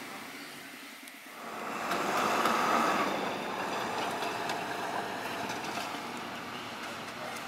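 Narrow-gauge sugar-railway train running past, swelling about a second and a half in, loudest around two to three seconds, then slowly fading as it moves away.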